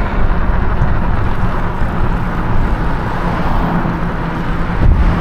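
Wind buffeting the microphone of a camera on a moving e-bike, with road noise underneath; a steady, loud rush, heaviest at the low end.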